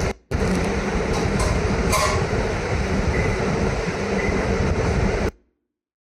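A loud, steady rumbling noise that drops out for a moment just after the start, resumes, and stops abruptly about five seconds in.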